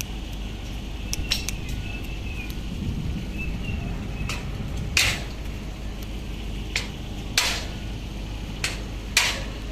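A steady low rumble with irregular sharp taps and knocks, about nine of them, the loudest about halfway through and near the end.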